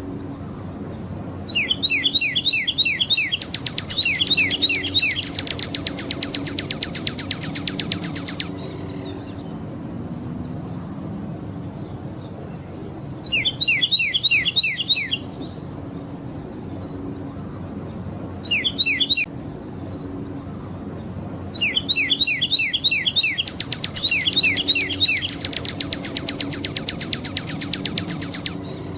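Northern cardinal singing: phrases of repeated down-slurred whistles, two of them running into a fast trill, with pauses of a few seconds between phrases.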